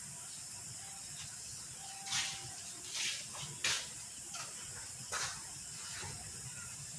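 A steady hiss from the pot cooking on the stove, with a few short clinks and knocks of kitchen utensils or cookware about two, three, three and a half and five seconds in.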